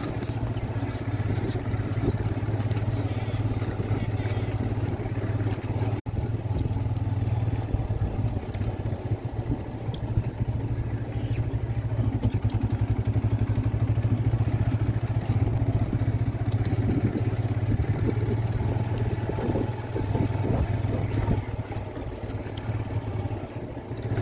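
An engine running steadily with a low, even drone, broken by a brief dropout about six seconds in.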